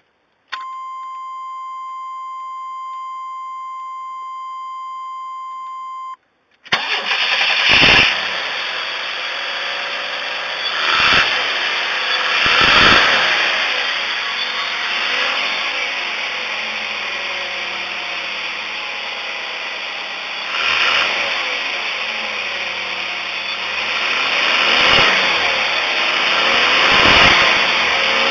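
A steady electronic warning tone sounds for about six seconds, then the 1994 Chevrolet Astro's 4.3-litre V6 cranks and catches near seven seconds in and runs, revved up several times.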